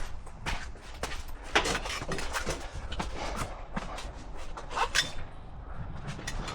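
Irregular light knocks and clicks, several a second, from hand work with tools or parts.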